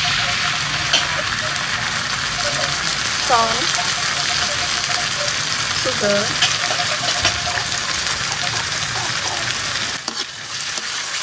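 Shredded vegetables and chilies frying in hot oil in a large steel wok, giving a loud, steady sizzle as they are stirred with a spatula; it eases a little near the end.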